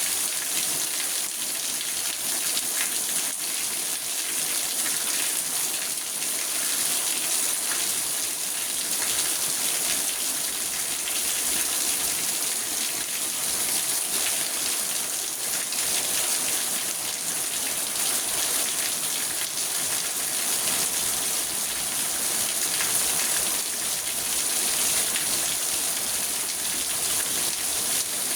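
Steady rain drumming on a car's roof and windows, heard from inside the car: a dense, even hiss of drops with fine pattering that keeps up without letting off.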